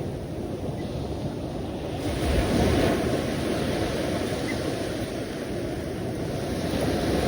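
Sea waves breaking and washing ashore in a steady rush, swelling a little about two seconds in.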